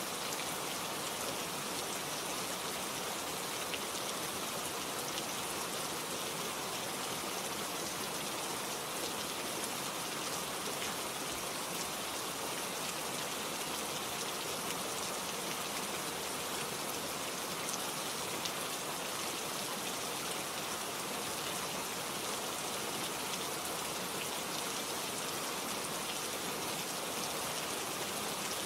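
Steady rain falling, with fine individual drops pattering on leaves and surfaces in an even hiss.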